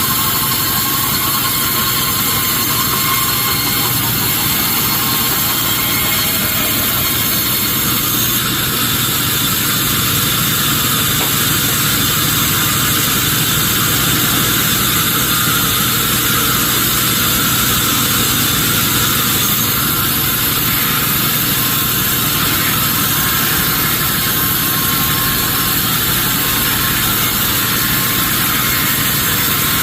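Sawmill machinery running steadily, a constant engine-like drone with a high hiss and no breaks.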